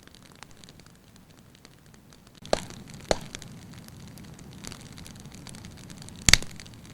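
Firewood burning in a fireplace and crackling: scattered small ticks, with three sharp pops about two and a half, three and six seconds in, the last the loudest. A low steady flame noise comes up with the first pop.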